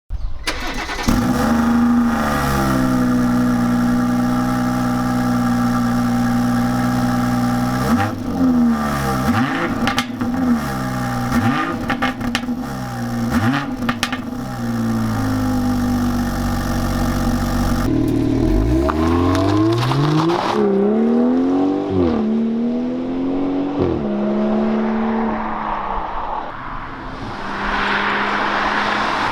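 BMW B58 turbocharged straight-six engine heard through its exhaust: it flares up and settles to a steady idle, then gets four quick revs about two seconds apart. After a change at about 18 seconds come a few more revs, and it drops back to idle.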